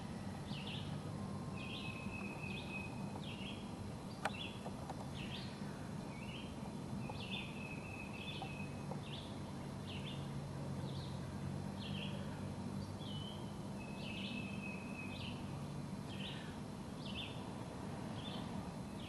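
A songbird chirps over and over, short dropping notes, some ending in a brief level trill, about one or two a second, over a steady low hum. A single sharp click comes about four seconds in.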